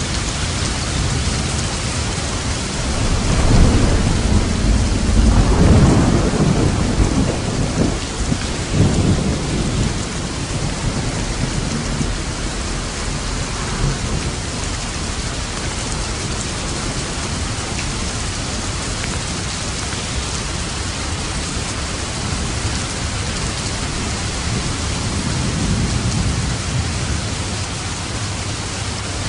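Steady heavy rain with thunder: a long, deep rumble of thunder swells about three seconds in and rolls on for several seconds, and a fainter rumble comes near the end.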